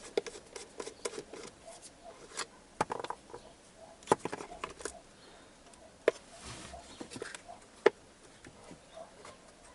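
Irregular plastic clicks, taps and knocks, with light rustling between them, as hands work a car's electronic control module loose from its mounting clips under the dashboard.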